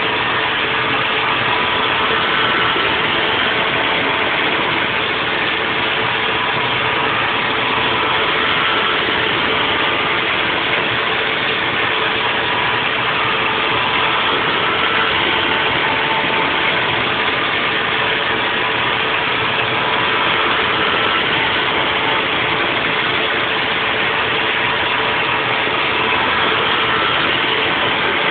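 Haas VF4 CNC vertical mill running a 3D milling program on a nest block. It makes a steady hiss with a constant hum, and faint brief higher tones come and go as the cutter moves.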